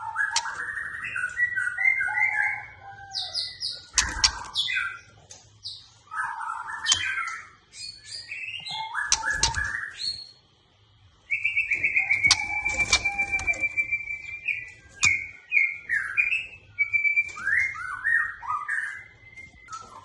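White-rumped shama singing a varied song of quickly changing whistled phrases and sharp notes, with a long, rapid trill a little past halfway. A few dull thumps come in among the phrases.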